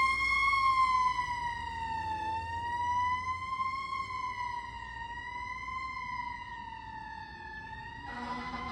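A fire apparatus siren sounding a slow wail, its pitch rising and falling every couple of seconds as it fades into the distance. Near the end another, lower and steadier tone cuts in.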